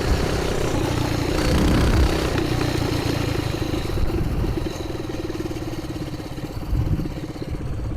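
Coleman BT200X mini bike's 196cc single-cylinder engine running through a straight pipe, heard from a helmet microphone. It eases off to lower revs and gets quieter about halfway through.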